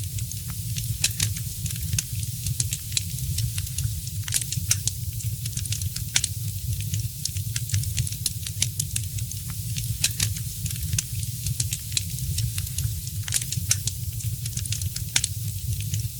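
Wood fire crackling in a fireplace: many small, irregular sharp pops and snaps over a steady low rumble.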